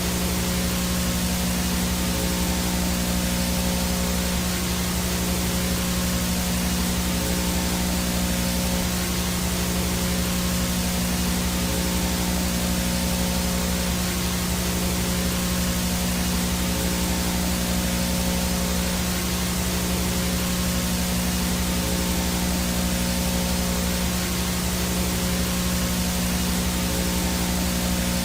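VHS static noise: a steady, unchanging hiss with a low buzzing hum underneath and a faint high whine.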